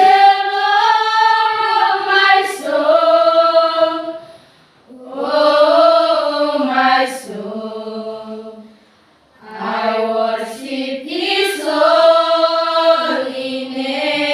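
Students singing a cappella in long, held notes. Three sustained phrases are separated by short pauses for breath, about four and nine seconds in.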